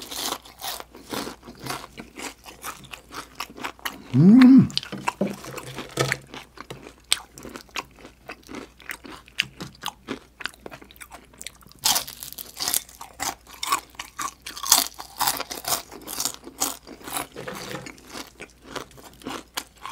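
Close-miked chewing of crunchy deep-fried chicken skin: rapid crisp crunches throughout, coming thickest about twelve and fifteen seconds in. About four seconds in there is one short, loud, rising hum of the voice.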